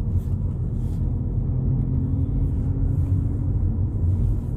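2022 Volkswagen Polo GTI driving along at a steady pace: an even, low rumble of engine and tyre noise.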